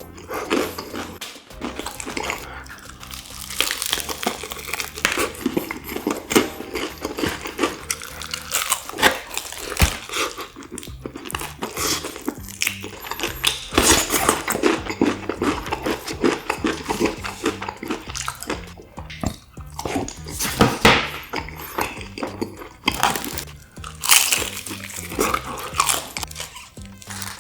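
Close-up crunching bites and chewing of seasoned Korean fried chicken, heard as many short, crisp crackles, over background music with a steady low bass line.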